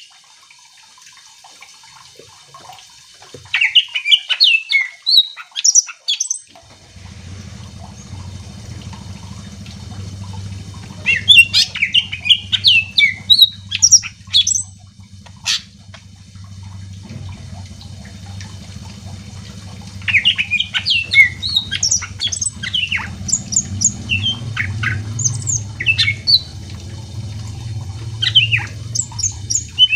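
Green leafbird (cucak ijo) singing in three bouts of quick, varied chirps, squawks and whistles, with the last bout running through to the end. A low steady hum sets in about seven seconds in.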